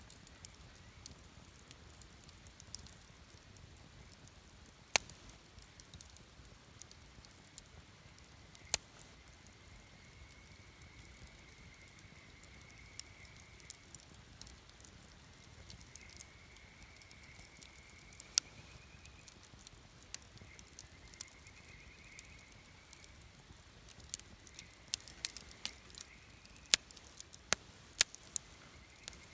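Wood campfire burning with a soft hiss and scattered sharp crackles and pops, which come more often in the last few seconds.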